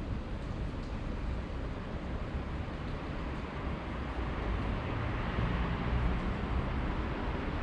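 Steady city background noise: a low rumble of traffic under an even hiss, growing a little louder in the second half.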